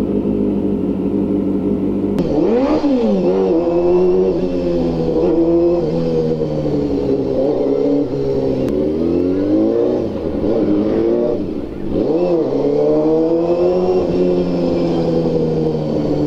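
Honda inline-four motorcycle engine, steady at first, then ridden: the revs climb and drop again several times as it pulls away and changes gear. It is running on carburetors the mechanic has just repaired, after the bike would no longer hold its idle.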